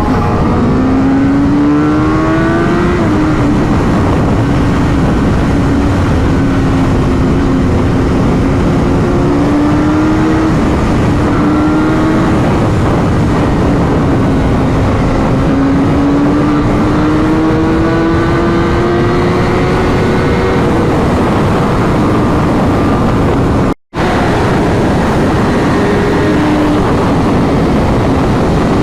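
Superbike engine running under way at road speed, its note slowly rising and falling, over heavy wind noise. The sound drops out for a split second near the end.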